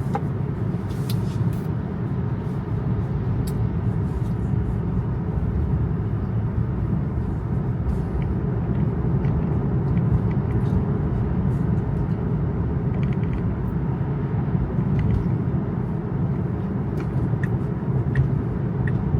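Steady low tyre and road noise of a Tesla driving on wet roads, heard inside the cabin, with scattered faint ticks.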